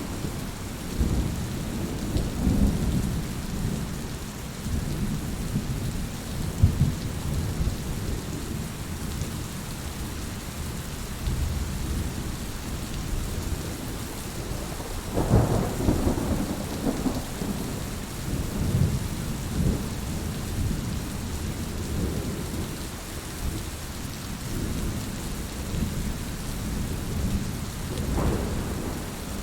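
Steady rain falling, with low thunder rumbling underneath that swells louder about halfway through and again near the end.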